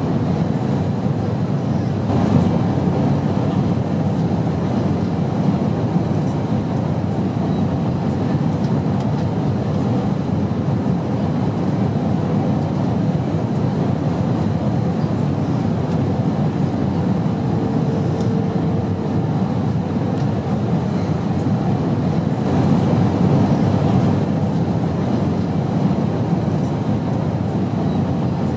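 Steady drone of an airplane in flight, the engines and rushing air making an even, deep noise with no rhythm. It swells slightly a couple of times.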